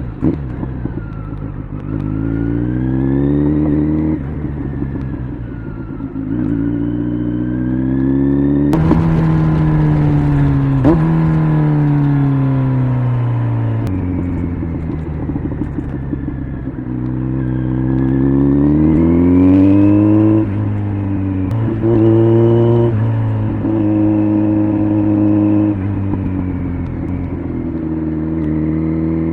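Kawasaki Z900's inline-four engine through an aftermarket LCI Parts exhaust, ridden hard: it revs up, drops in pitch at gear changes, and runs down again as the rider eases off, several times over. About nine seconds in there is a sharp crack, and near the end the engine settles to a steadier cruise.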